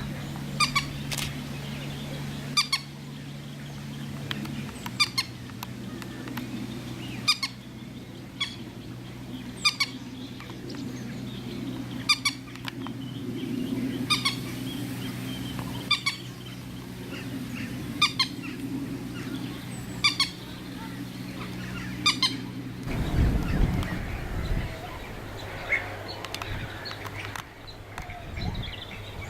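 A bird repeating a short, sharp call about every two seconds over a steady low hum. About 23 seconds in the hum gives way to a low rumble, with fainter, scattered calls after it.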